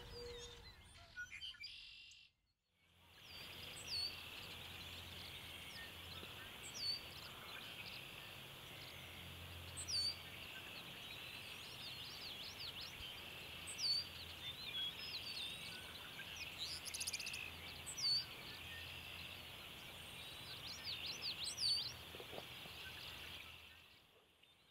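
Soft music fades out in the first two seconds, then marsh ambience: birds repeating short sweeping whistled calls every few seconds over a steady high-pitched chorus and a faint low hum.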